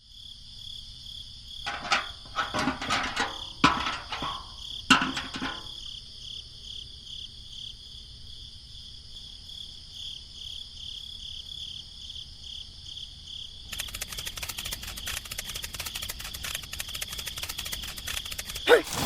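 Insects chirring steadily in a high, pulsing drone, with a few sharp knocks and scrapes a couple of seconds in and a crackling noise joining about two-thirds of the way through.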